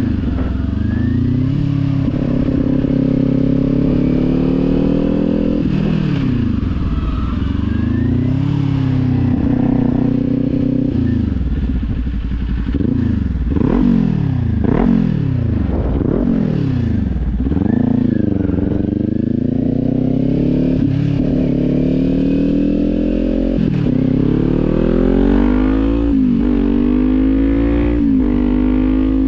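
Kawasaki sport bike's engine through a Leo Vince aftermarket exhaust, ridden under way: the engine note climbs and drops in pitch again and again as it revs up and changes gear, with a quicker series of rises and falls around the middle.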